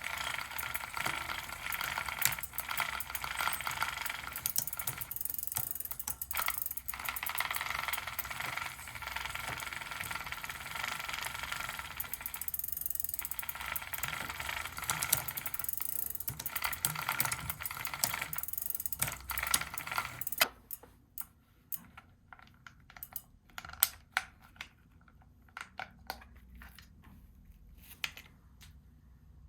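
A chain being worked mechanically, a steady clicking rattle with brief pauses, which stops suddenly about two-thirds of the way through. After that come scattered single clicks and light knocks.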